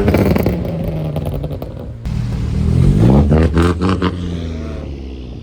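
A car engine revving twice, its pitch climbing quickly and then falling back, with short sharp crackles through the revs.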